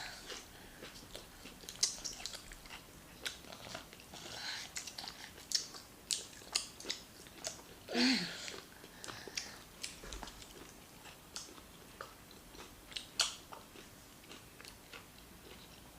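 Close-miked chewing and mouth sounds of people eating rice and stew: irregular wet clicks, smacks and brief crunches. About halfway through comes a short falling vocal sound, the loudest moment.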